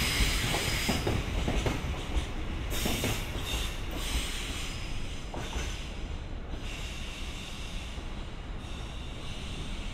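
Freight train wagons rolling past on steel wheels. Wheel clacks over rail joints come in a quick rhythm in the first couple of seconds, with bursts of high-pitched wheel squeal, and the sound gets quieter toward the end.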